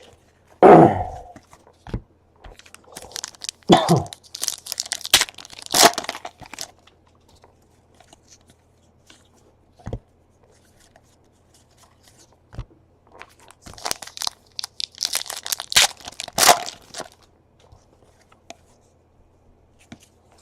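Trading card pack wrappers being torn open, the wrappers ripping and crinkling in two spells, about three to seven seconds in and again about fourteen to seventeen seconds in, with a shorter rustle just under a second in and small handling clicks between.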